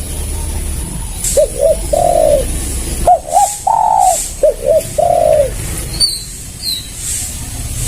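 Spotted dove cooing loudly: three phrases, each two short rising notes followed by a longer held note. A small bird chirps faintly near the end.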